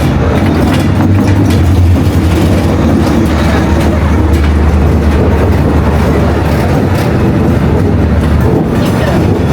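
A train passing close by on a street-side track, a loud steady low rumble with wheel and rail noise that eases off near the end.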